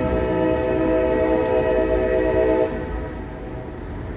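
CSX locomotive air horn sounding one long, steady blast that ends about three seconds in, warning as the train runs down the street.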